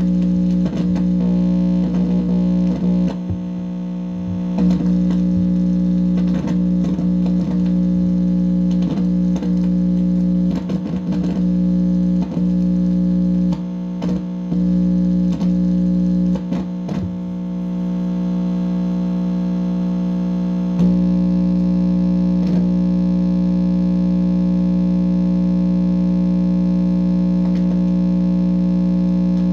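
Amplified electronic buzz: a steady distorted hum with many overtones, broken by irregular crackles and clicks that come thick in the first two-thirds and only now and then near the end.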